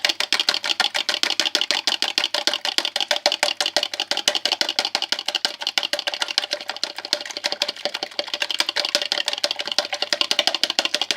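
Fork beating two raw eggs in a microwave jug: a fast, even run of sharp ticks, about eight a second, as the tines strike the jug. It stops near the end, once the yolks and whites are mixed.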